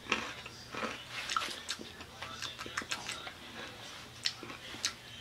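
A crunchy biscuit stick dipped in chocolate being bitten and chewed, with irregular crisp crunches, a few of them sharper than the rest.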